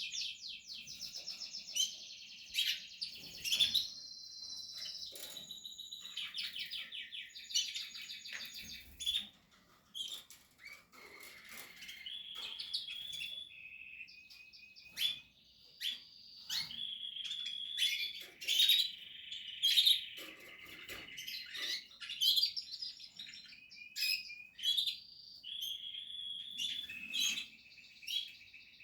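Portuguese harlequin canaries singing and chirping almost without a break: long rolling trills of rapidly repeated high notes, mixed with short sharp chirps and a few clicks.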